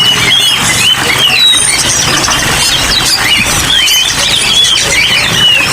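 A dense chorus of many caged songbirds chirping and whistling at once, with short high notes gliding up and down and overlapping throughout, over a steady hiss of rain.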